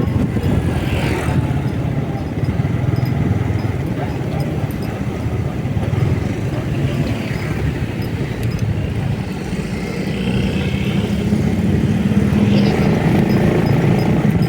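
Motorcycle being ridden at a steady pace: its engine runs as a low, even drone mixed with wind noise on the microphone, growing a little louder from about ten seconds in.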